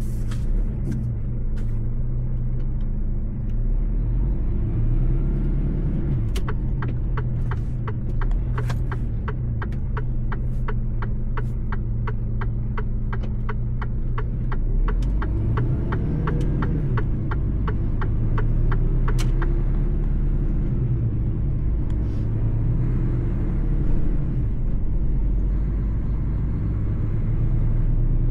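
Mercedes-Benz truck driving on the road, its engine a steady low drone whose pitch rises and falls slightly. Through the middle stretch a regular ticking runs at about three ticks a second for some twelve seconds.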